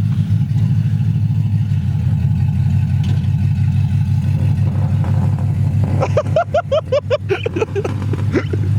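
A V8 muscle-car engine idling with a steady, lumpy rumble. About six seconds in, a quick run of short pitched chirps, some six a second and dropping slightly in pitch, sounds over the engine for about two and a half seconds.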